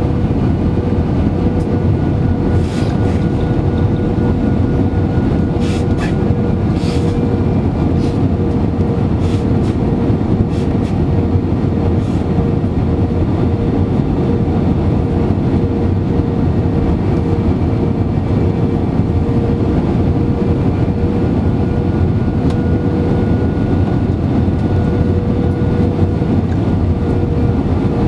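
Airbus A320-200 cabin noise in flight: a steady roar of the jet engines and airflow with a constant hum, and a few faint clicks in the first half.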